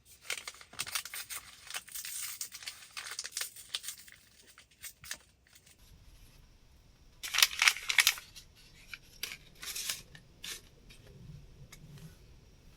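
Close handling sounds of camping gear or material: steady rustling and crinkling, a louder burst of rustling about seven seconds in, then scattered light clicks.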